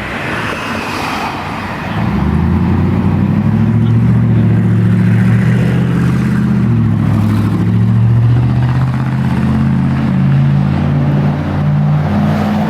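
A car engine running steadily at low revs close by, with a deep, even tone that comes in loud about two seconds in.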